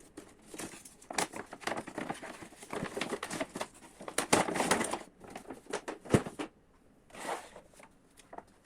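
Handling noise: crinkling and rustling of plastic packaging, with many small clicks and crackles for about six seconds and a sharp knock just after, then one more short rustle.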